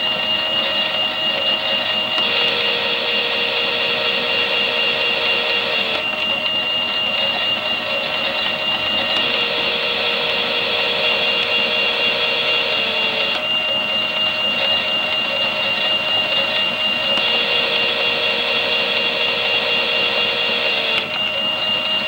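Small electric motor of a toy Miele washing machine running its drum, a steady high whine with a lower hum that cuts in and out about every four seconds, dipping in pitch each time it stops.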